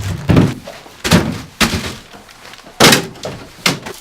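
A fridge-freezer being loaded with groceries: about five knocks and thuds as the door is handled and packs are shoved inside.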